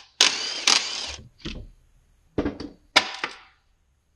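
A power tool runs for about a second, backing out the bolts of an NV273F transfer case's electric shift motor, followed by three sharp metallic knocks as parts are handled.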